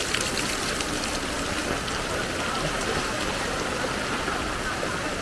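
Steady heavy rain falling onto a flooded street, with the floodwater running.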